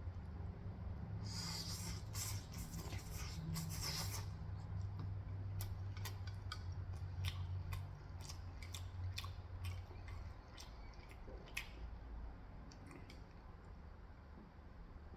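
Close-miked eating of crispy Korean-style fried chicken. Dense crunching bites start about a second in and last about three seconds, followed by scattered sharp clicks of chewing and mouth sounds, over a low steady hum.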